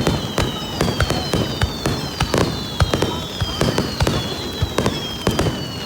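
Fireworks going off: a dense run of sharp cracks and pops, irregular throughout, with deeper booms among them.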